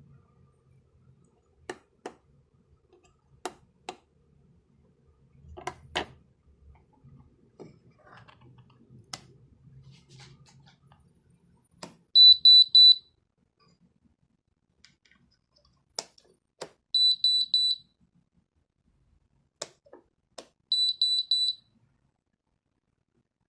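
A dehumidifier control board's electronic buzzer gives three short bursts of rapid high beeps, spaced a few seconds apart. Sharp clicks and handling knocks come before and between the bursts.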